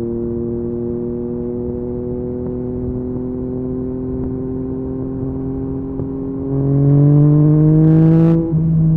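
Yamaha MT-09's inline three-cylinder engine breathing through an Akrapovic carbon exhaust, running steadily under light throttle with the pitch slowly rising. About six and a half seconds in it gets louder as the throttle opens and the revs climb, then near the end the sound dips briefly and drops in pitch as it shifts up, and pulls on.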